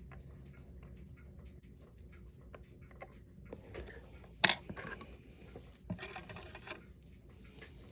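Small, sharp clicks and light scraping of watchmaker's tools and parts during disassembly of a Seiko 5 7S36 automatic watch. One sharp click about halfway through is the loudest, and a brief scraping rustle follows a second later.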